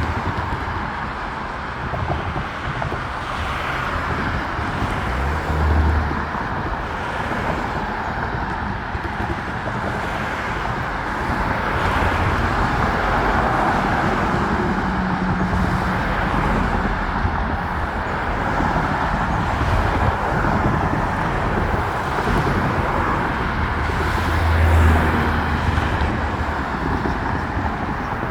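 Road traffic passing: a steady hiss of tyres and engines that swells a little in the middle, with two brief low rumbles, about six seconds in and again near the end.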